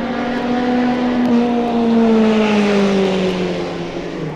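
Sports-racing car engine passing at speed, its pitch falling steadily as the car slows for a corner; loudest about halfway through.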